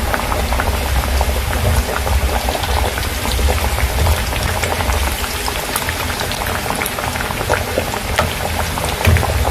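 Coated carrot nuggets deep-frying in hot oil: a steady, dense bubbling and crackling sizzle.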